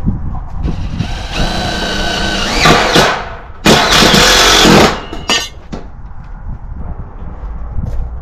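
Power drill running in two bursts: a steady whine for about two seconds, then after a short pause a louder, harsher run of about a second, followed by a few clicks.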